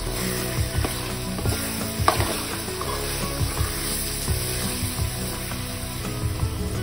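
Vegetables sizzling steadily in hot oil in a steel wok, stirred with a spoon that knocks and scrapes against the pan now and then, loudest about two seconds in.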